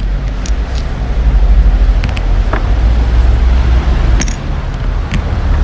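Motor vehicle engine running close by: a steady low rumble, with a few light clicks and knocks on top.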